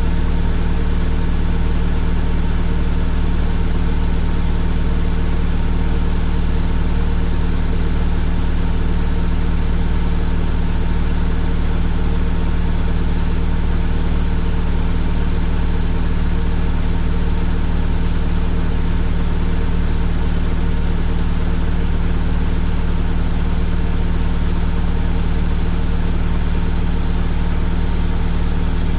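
Washing machine running with a steady, unchanging low drone and hum, a thin high whine faintly over it.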